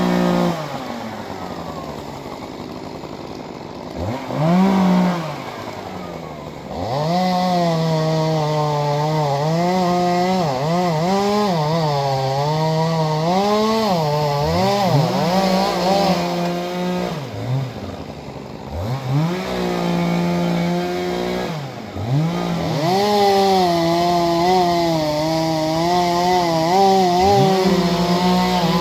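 Two-stroke chainsaw blipped up and down, then held at full throttle for long stretches while cutting through tree limbs, its pitch sagging and recovering under load. In between it drops briefly back to idle.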